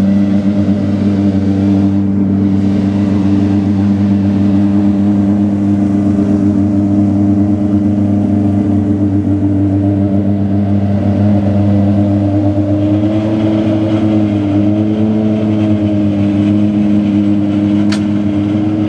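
Aston Martin Vulcan's 7.0-litre V12 idling steadily, with a slight lift and waver in pitch about two-thirds of the way through.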